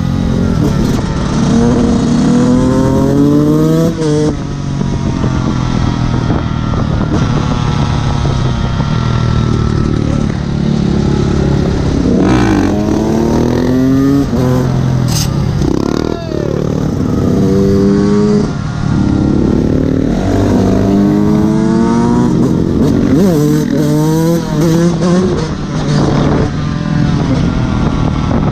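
Fantic XE 125 two-stroke enduro engine under hard throttle. It revs up in repeated rising sweeps, with sudden drops when the throttle is shut or a gear is changed.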